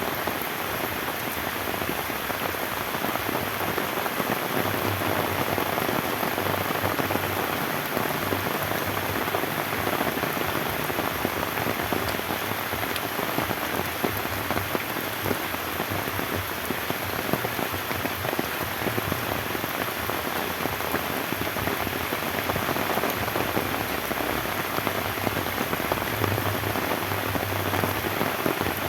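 Steady rain falling, an even hiss with frequent sharp individual drop hits.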